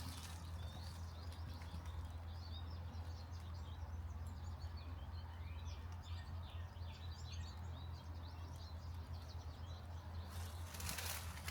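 Small birds chirping, a dense run of short high calls from about a second in to near the end, over a steady low rumble.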